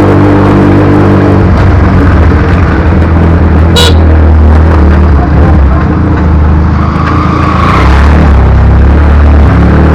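Motorcycle engine running loud, its steady note giving way after a second or so to a heavy low rumble, with one sharp click about four seconds in.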